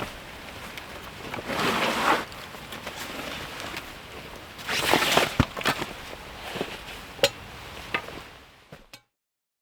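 Outdoor rustling with two louder swishes and a few sharp clicks or snaps, fading out to silence about nine seconds in.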